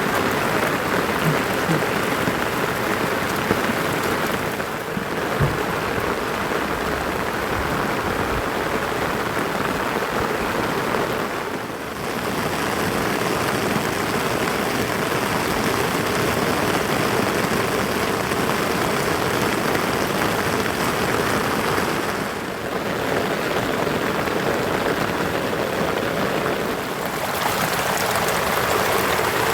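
Heavy rain falling steadily, a dense hiss of raindrops, dipping briefly in level a few times.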